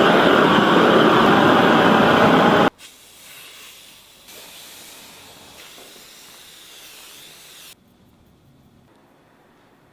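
Chainsaw running loud and cutting wood, then stopping abruptly under three seconds in; after it, only a faint hiss remains.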